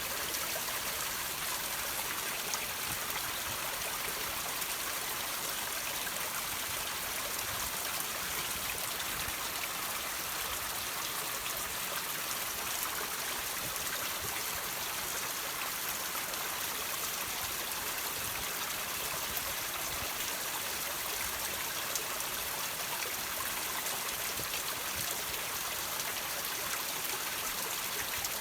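Water trickling and dripping off rocks in a steady stream, with faint scattered drip clicks over an even rush of water.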